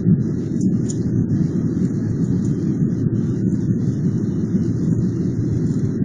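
Airliner cabin noise during takeoff: a loud, steady low rumble of the jet engines heard from inside the passenger cabin.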